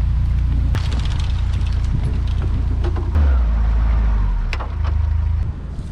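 Narrowboat diesel engine running: a steady low rumble that shifts in note about three seconds in, with a few light knocks over it.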